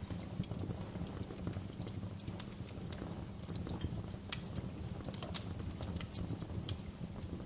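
Wood fire in a fireplace crackling: irregular sharp pops and snaps over a low steady rumble of the flames, with the loudest pop about four seconds in.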